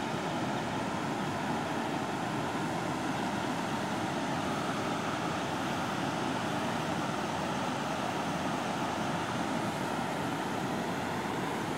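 Steady outdoor background noise: an even hiss with a faint, unchanging hum, and no distinct events.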